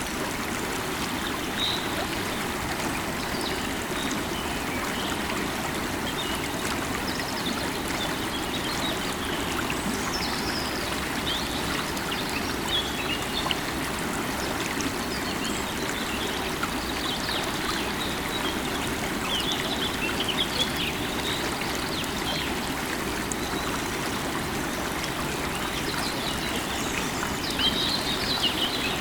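River water running and babbling steadily over stones. Small birds chirp in short scattered bursts above it, most around the middle and near the end.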